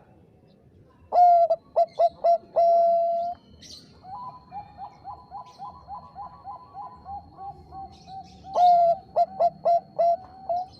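Bangkok perkutut (zebra dove) cooing. Two loud phrases, one about a second in and one near the end, each opening with a swooping note, then a few short notes, then a long held note. Between them comes a softer, quicker run of short coos.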